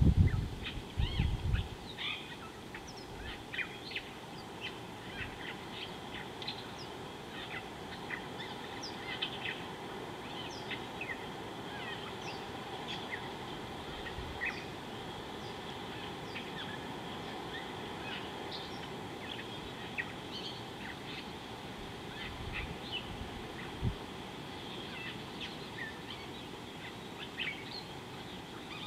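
Wild birds chirping and calling: many short, high chirps scattered throughout over a steady outdoor background hiss, with a few low thuds near the start and again about 23 seconds in.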